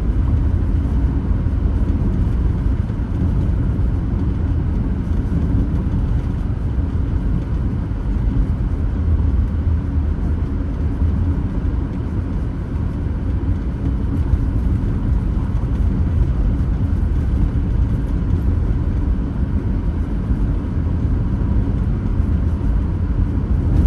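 Steady road noise of a car driving at a constant pace, mostly a low rumble of tyres and engine, heard from inside the car.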